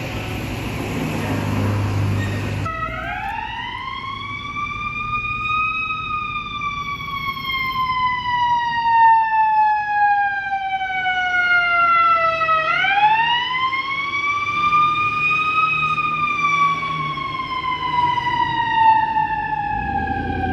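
Emergency vehicle's siren wailing in two long cycles, each rising quickly in pitch and then falling slowly. Before it starts there is a few seconds of rumbling traffic and engine noise.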